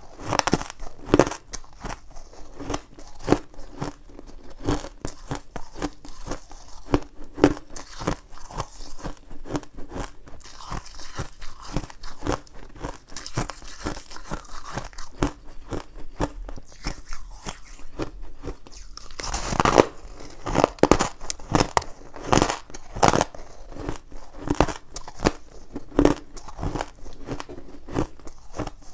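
A person biting and chewing ice close to the microphone: a steady run of sharp crunches, one every half second or so, growing louder and denser about two-thirds of the way through.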